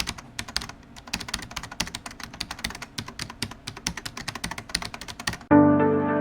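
Rapid, irregular computer keyboard typing clicks, several a second. About five and a half seconds in they stop and music with sustained keyboard chords begins.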